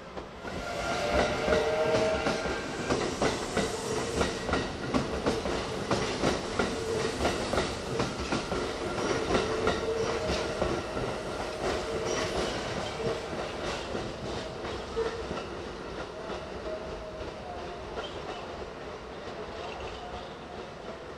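Electric commuter trains running slowly over points and curved track, the wheels clacking at a steady beat over the rail joints, with a steady squealing tone that comes and goes. The sound is loudest in the first half and fades gradually towards the end.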